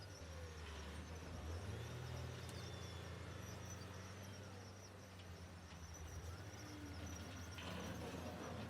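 Diesel engine of heavy earthmoving equipment running steadily, its pitch rising for a while about a second and a half in. A steady high insect chirring runs over it.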